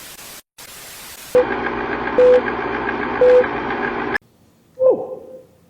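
Electronic static hiss that drops out briefly. It is followed by a louder buzzing noise with three short beeps, which cuts off abruptly, and then a single quick falling tone.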